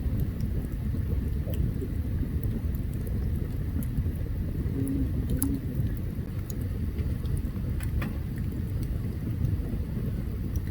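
Open campfire burning, with scattered sharp crackles and pops from the wood over a steady low rumble.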